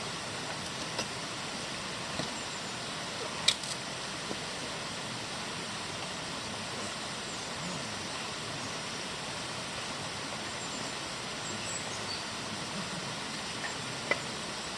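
Steady rushing outdoor background noise, even and unbroken, with a brief knock about three and a half seconds in and another near the end.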